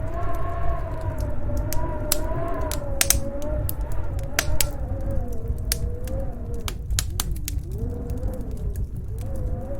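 Snowstorm wind howling, a whistling tone that slowly wavers up and down over a low rumble, with the sharp crackles and pops of a wood fire scattered throughout.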